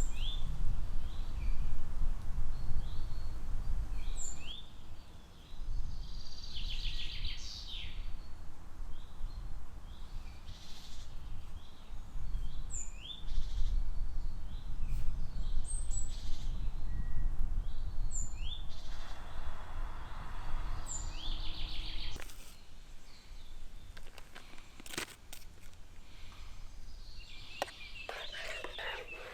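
Woodland birds singing, with short high chirps repeated throughout, over a low rumble that drops away about 22 seconds in. A few sharp clicks come near the end.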